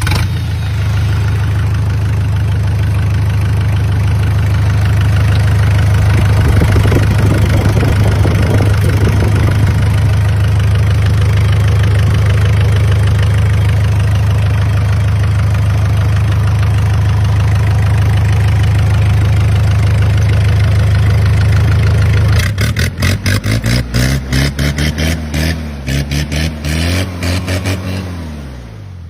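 Nissan diesel engine running loud and steady for about twenty seconds. It then turns uneven and pulsing, its revs rising and falling, and dies down and quietens near the end.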